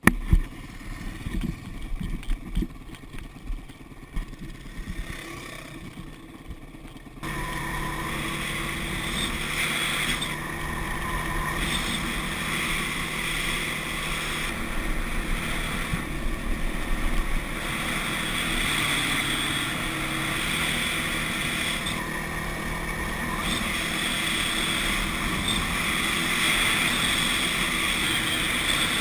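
Dirt bike engine running while riding, with irregular thumps of wind buffeting on the microphone during the first few seconds. About seven seconds in the sound switches abruptly to a louder, steady engine drone that holds to the end.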